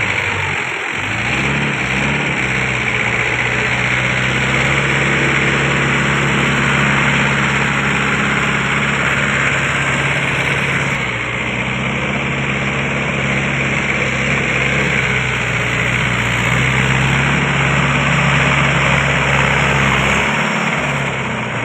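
Mahindra Yuvo 575 tractor's diesel engine running steadily at a constant pitch, with a brief dip about a second in and a slight change in tone around halfway.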